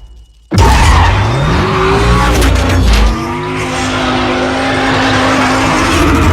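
Sports car engine revving hard with tyres skidding and squealing, cutting in suddenly about half a second in; the engine pitch climbs, then holds steady.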